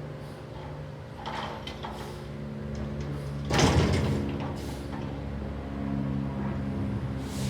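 CNG Peterbilt 320 front-loader garbage truck's engine running steadily. About three and a half seconds in there is a sudden loud burst of noise lasting about half a second, after which the engine note grows stronger.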